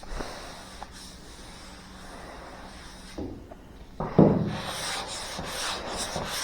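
Sandpaper on a hand sanding block rubbed back and forth over a car's roof panel. The strokes are faint at first, then louder and quicker from about four seconds in.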